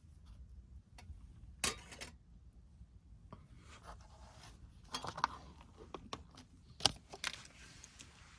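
Scattered light knocks and clicks with short bursts of rustling, as of gear being handled; the sharpest knocks come a little under two seconds in and near seven seconds.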